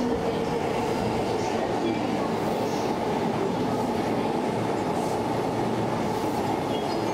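JR Chuo Line E233-series electric commuter train running along the platform: a steady rumble of wheels on rail and running gear.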